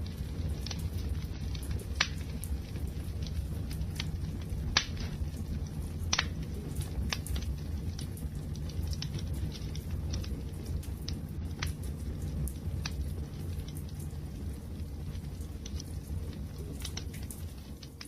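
Wood fire burning, a steady low rumble of flames with scattered crackles and sharp pops from the burning wood, a few louder pops about two, five and six seconds in.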